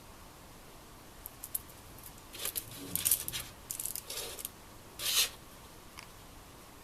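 Small objects being handled: a few light clicks, then a stretch of scraping and rustling and one louder rustle about five seconds in.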